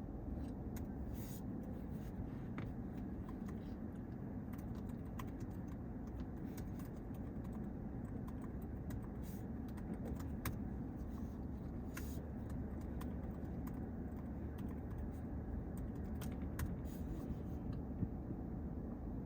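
Steady low rumble of road traffic, with scattered light clicks.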